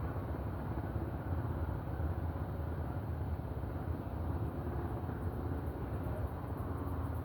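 Outdoor walking ambience: a steady low rumble with no distinct events, and faint high chirps or ticks coming in near the end.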